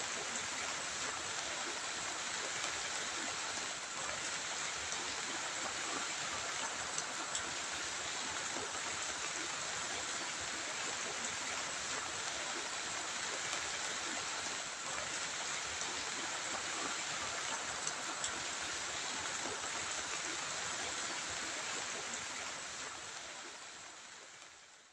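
Heavy rain falling, a steady, even hiss that fades out over the last few seconds.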